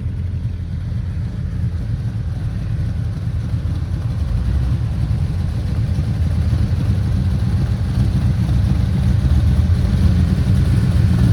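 Corvette engine running at low speed with a deep, steady rumble as the car rolls up, getting gradually louder as it approaches.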